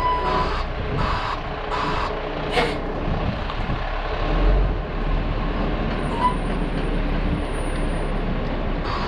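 Garbage truck reversing to park, its reversing alarm beeping in a steady rhythm that stops about two seconds in. A short sharp hiss of air follows, and the engine keeps running steadily underneath.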